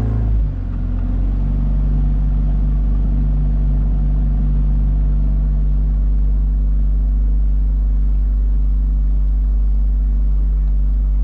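A 9.8 hp outboard motor running under way, a steady drone whose pitch shifts about a second in and then holds even.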